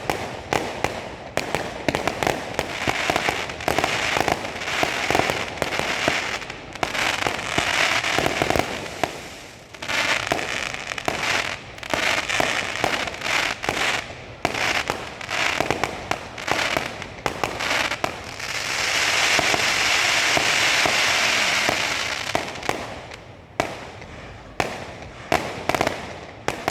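Fireworks display: rapid volleys of sharp bangs and pops, swelling about two-thirds of the way through into a sustained crackling hiss for several seconds before single bangs resume.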